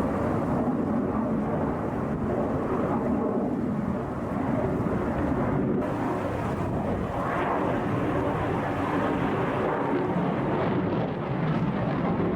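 Jet engine noise from a Su-57 fighter flying a display, a continuous rushing sound that swells briefly about seven seconds in.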